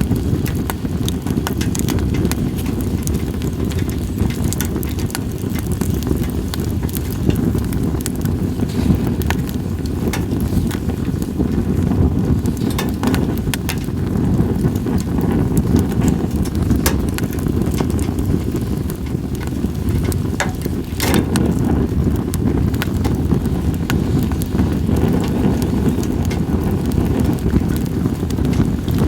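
Campfire of split sawtooth oak (kunugi) logs crackling, with frequent sharp pops and one louder pop about two-thirds of the way through. A steady low wind rumble on the microphone runs underneath.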